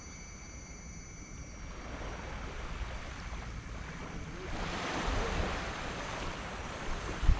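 Sea waves on a sand beach: quieter backwash at first, then a wave breaks and washes in with a swelling hiss from about four and a half seconds, over a steady low rumble. A brief low thump of wind on the microphone comes just before the end.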